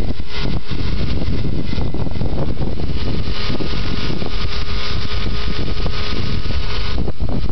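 Strong wind buffeting the microphone, with the faint steady tone of a radio-controlled aerobatic plane's motor running underneath.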